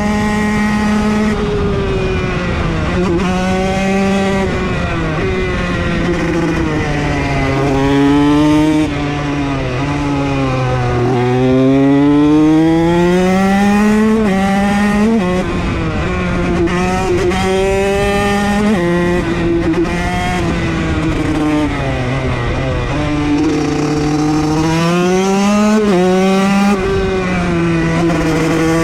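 KTM SX dirt bike engine pulling hard under throttle, its pitch climbing on each pull and dropping sharply at gear changes or when the throttle is closed, then winding up again.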